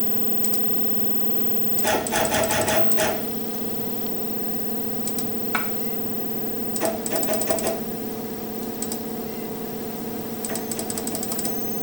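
CNC router stepper motors jogging the Z axis down in three short bursts of rapid ticking, with a single click in between, over a steady electrical hum from the machine.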